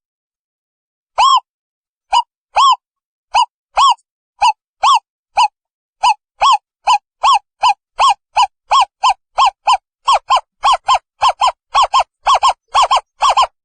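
Owl calling: a series of short hooting notes, each rising and then falling in pitch, which speed up steadily from about one a second to about three a second, with silence between notes.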